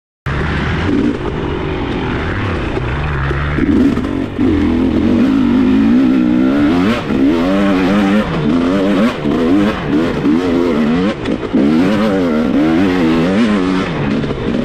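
Dirt bike engine running under way, steady at first, then revving up and down over and over from about four seconds in as the throttle is worked on rough ground.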